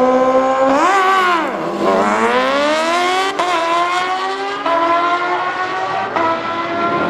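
A drag-racing vehicle's engine revs, then accelerates hard down the strip. Its pitch climbs and drops sharply at each gear shift, about four shifts.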